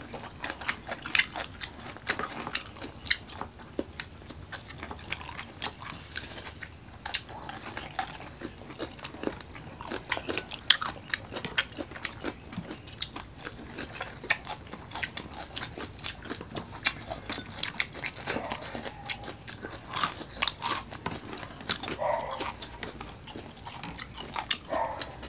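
Close-up eating sounds: chewing and crunching food, with many short sharp crunches at irregular intervals.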